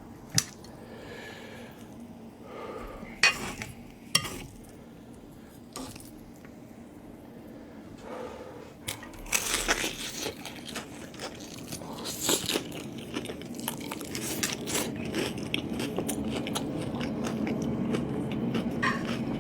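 Close-miked eating: a person biting into and chewing crunchy food, ASMR mukbang style. A few sharp separate clicks and crunches come first, then thick continuous crunching and chewing from about halfway through.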